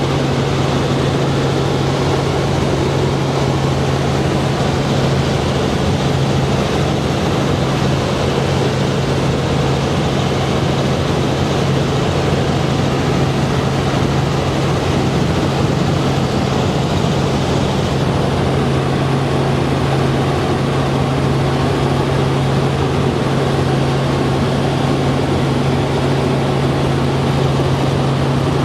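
Helicopter engine and rotor running, a loud steady drone with a strong low hum.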